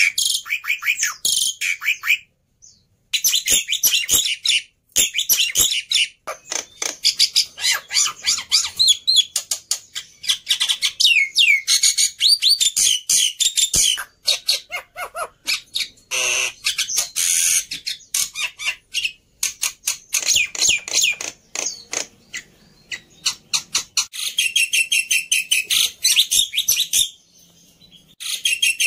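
Black-winged myna (jalak putih) singing a long, vigorous song of rapid chattering notes and high whistles, with a couple of short pauses: one a few seconds in and one near the end.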